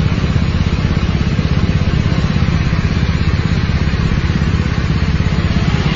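Small motorcycle engine idling steadily close by, with a fast, even pulsing beat.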